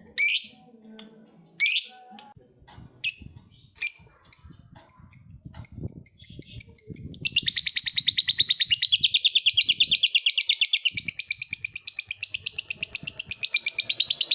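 Lovebird ngekek: a few separate shrill calls, then from about six seconds in a long unbroken run of rapid, evenly repeated high chattering notes, the prized long trill of a lovebird.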